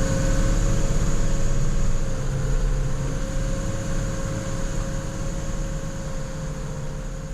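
Plow truck engine running steadily with a steady whine over a low rumble, gradually fading out over the last few seconds.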